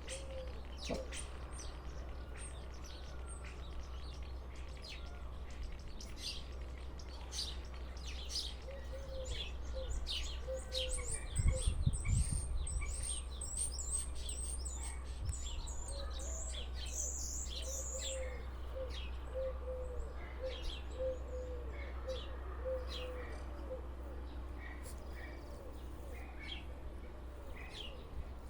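Bird singing a varied, mimicking song: quick chirps and whistles throughout, a long high trill in the middle, and runs of low, evenly repeated notes. A low steady hum sits underneath, and there is a brief low bump about twelve seconds in.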